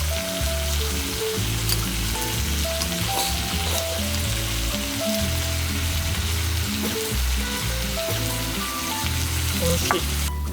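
Food sizzling in a hot pan, a steady hiss with small pops that cuts off suddenly near the end, over background music.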